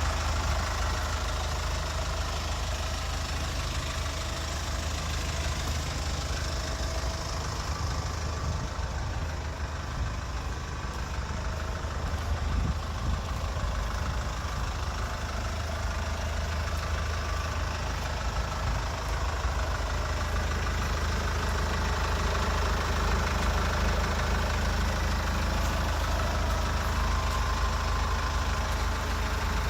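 2016 SsangYong Korando's turbo diesel engine idling steadily with an even low drone.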